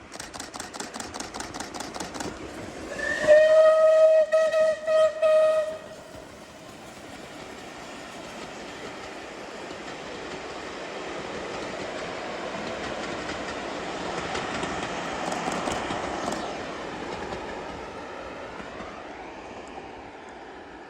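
Battle of Britain class steam locomotive 34072 '257 Squadron', a three-cylinder Bulleid Pacific, passing with its exhaust beating rapidly, about six beats a second. About three seconds in it sounds a long steam whistle blast that ends in a couple of short breaks. The train then rolls past with a steady rumble that swells and slowly fades.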